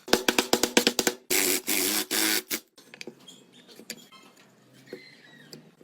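Hand tool work on metal: a quick run of sharp ringing knocks for about a second, then three harsh rasping strokes of about half a second each, followed by faint scattered clicks.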